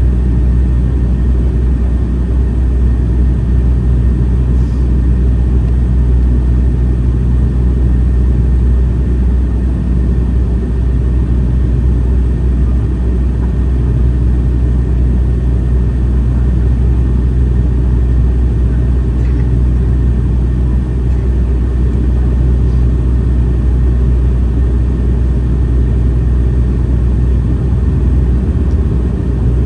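Airliner cabin during approach: a steady low drone of the aircraft's engines and the airflow along the fuselage, with a few low steady tones, unchanging in level.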